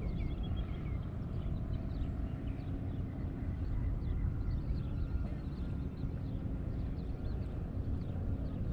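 Small birds chirping in quick short calls, over a steady low outdoor rumble.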